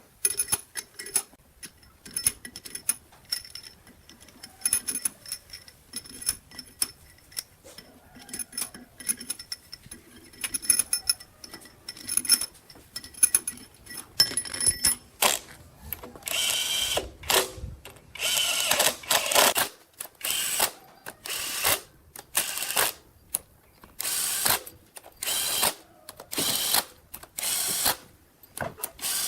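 Hand tool work on metal: a run of light metallic clicks and taps, then from about halfway a regular series of short rasping strokes, each under a second, about one a second.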